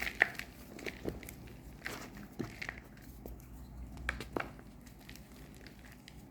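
Reformed gym chalk bars being crushed, giving off irregular dry crunches and crumbling crackles. The crunches come in clusters, thinning out toward the end.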